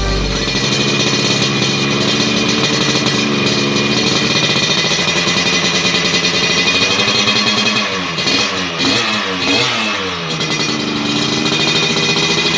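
Yamaha RX King's 135 cc single-cylinder two-stroke engine running steadily through a B-PAZZ aftermarket exhaust, with the throttle blipped several times about eight seconds in, pitch rising and falling, before it settles back to a steady note.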